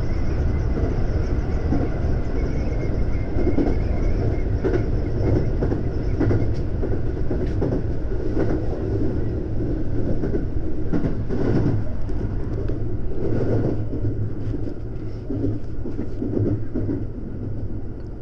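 JR West 521 series electric train running, heard inside the front car: a steady rumble with a faint steady whine, and wheel knocks over rail joints every second or two. The noise eases off near the end.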